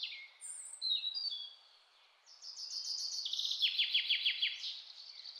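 Birds chirping and singing: short, high, falling notes, with a fast trill of down-sliding notes about three seconds in.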